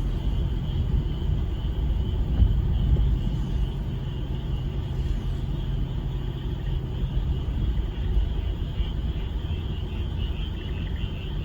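A frog chorus: a continuous high, pulsing trill of many frogs calling together, its pulses clearer near the end. Under it runs a steady low rumble, the loudest part.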